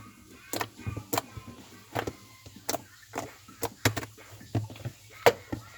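A series of sharp, irregularly spaced clicks and knocks, about two a second, over a faint steady low hum.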